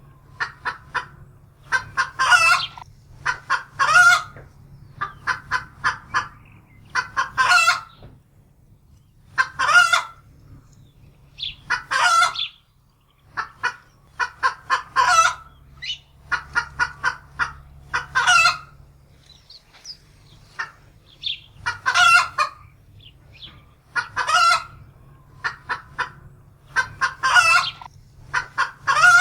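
A domestic hen cackling in alarm: repeated bouts of quick, loud, harsh squawking notes, a new bout every second or few, the alarm cackle of a hen frightened by a predator.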